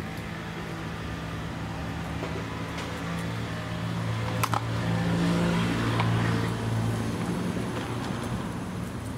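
A motor vehicle's engine hum nearby, growing louder to a peak about halfway through and then easing off, with a brief click in the middle.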